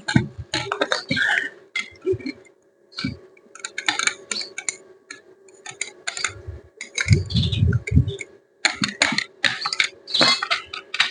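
Irregular clicking and clinking of metal tools and parts being handled as the cutting disc is taken off an angle grinder, with a few dull thumps about seven seconds in.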